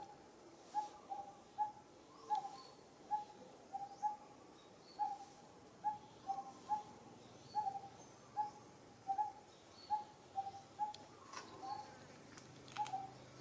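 A bird calling with short, low repeated notes, singly or in pairs about once a second, with a fainter high chirping of another bird behind it. A couple of faint clicks near the end.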